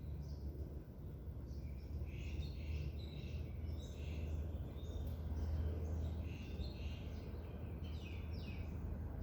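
Several birds chirping in rapid, overlapping short calls, over a steady low rumble.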